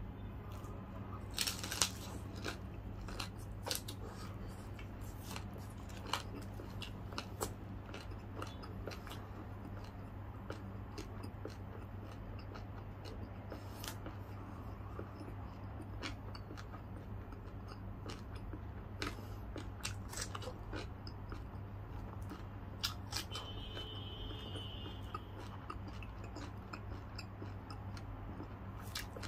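Close-up chewing and biting of crispy deep-fried pork belly (lechon kawali), with sharp crackling crunches at irregular intervals. A steady low hum runs underneath.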